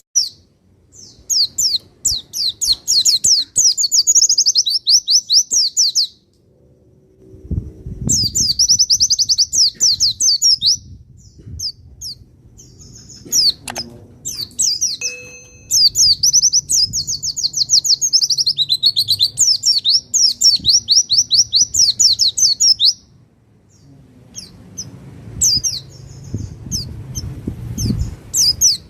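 Pleci (white-eye) singing long, fast, high-pitched trilled phrases of rapidly repeated notes, several seconds each, broken by short pauses.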